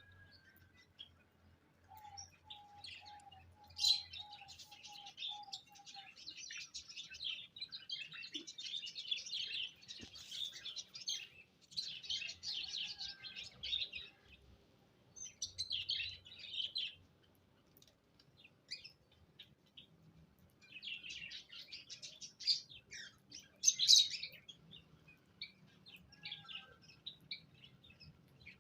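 Small cage birds chirping and chattering in busy bursts with short pauses between them, and a brief run of lower, evenly spaced notes a couple of seconds in.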